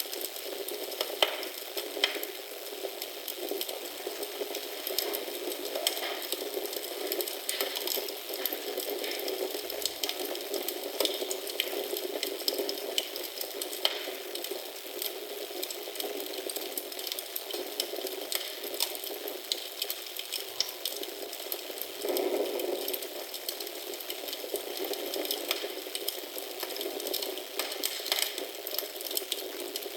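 Wood fire in a fireplace crackling steadily, with frequent sharp pops over a soft hiss.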